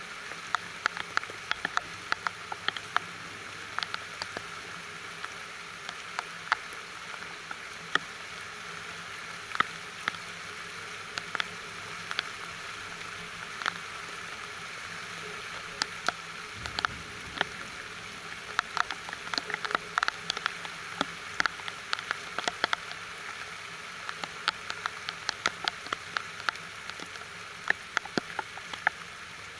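Steady rain: a constant patter with many sharp, separate drops tapping close by.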